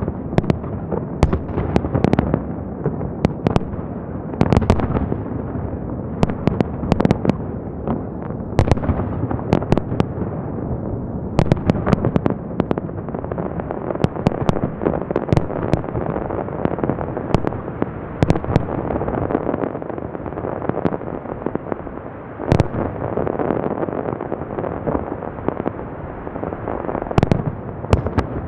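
Fireworks display going off: frequent sharp bangs of bursting shells over continuous crackling and rumbling echo.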